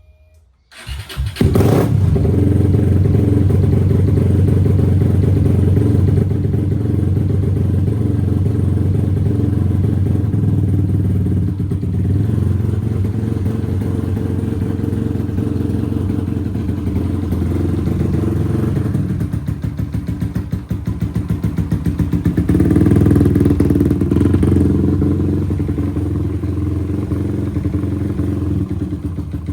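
SYM VF 185 single-cylinder engine, bored to 67 mm, cold-starting. After a second of silence it catches and runs at a steady fast idle. About two-thirds through, the idle dips and pulses unevenly, then picks up briefly and settles a little lower.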